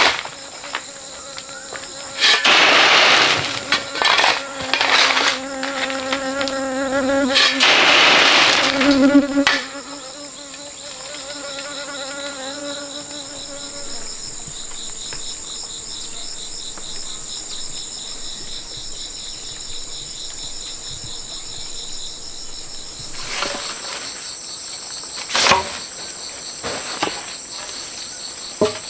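Insects chirring steadily in a high, finely pulsing drone. Several loud bursts of noise come in the first ten seconds, and a few sharp knocks near the end.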